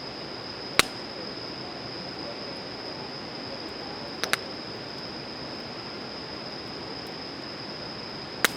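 Wood campfire burning with a steady hiss and a few sharp pops: one a little under a second in, a quick double pop past the middle, and one near the end. A thin steady high-pitched tone runs underneath.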